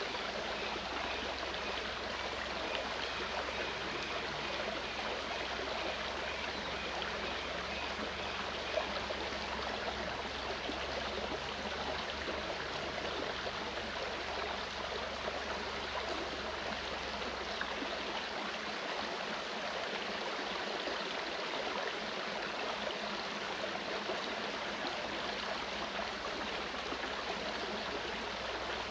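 Clear mountain stream running over rocks: a steady, even rush and babble of water.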